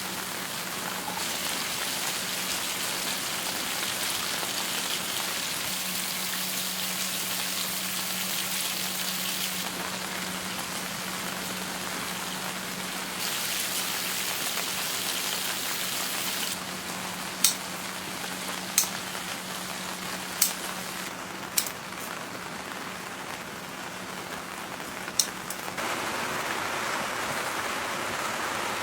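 Steady rain falling, an even hiss that jumps up and down in level a few times, with a constant low hum beneath it. Several sharp clicks or taps come in the second half.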